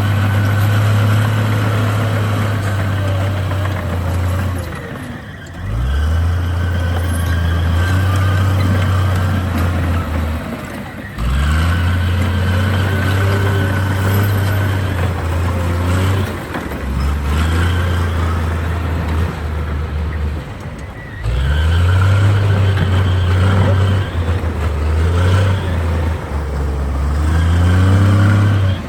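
Komatsu D58 bulldozer's diesel engine working under load. Its revs drop and climb back up in repeated cycles every five to six seconds, with faint clanking above the engine.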